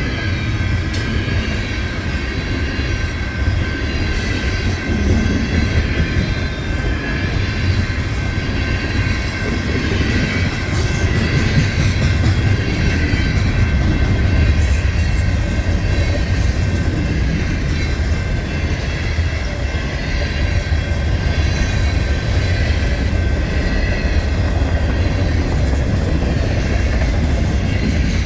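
Freight train cars rolling past at steady speed: a continuous heavy rumble of steel wheels on rail, with a faint steady high ringing tone above it.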